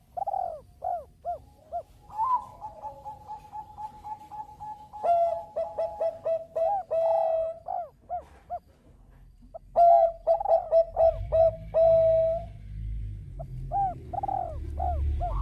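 Zebra dove (Bangkok perkutut) cooing: strings of short, quick arched coo notes, with a long drawn-out note early on and bursts of rapid notes. A low rumble comes in during the second half.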